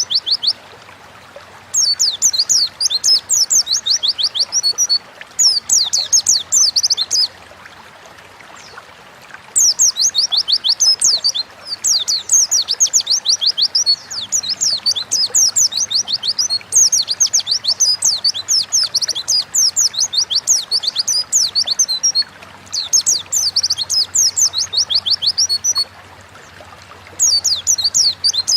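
White-eye (pleci) singing in long, fast twittering phrases of high, rapidly repeated chirps, broken by short pauses of a second or two.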